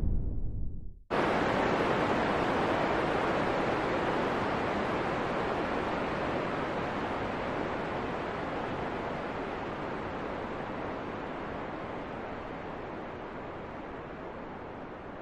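Wind noise from a relaxation track: a deep, low wind fades and cuts out about a second in, then after a brief gap a brighter, hissing wind starts abruptly and slowly fades.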